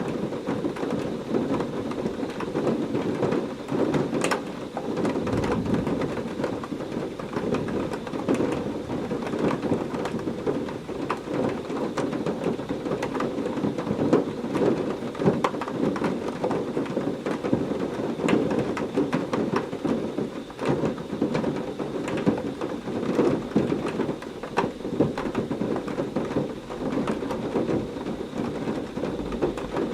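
Heavy rain falling steadily, a dense patter of drop impacts, with thunder rumbling through it.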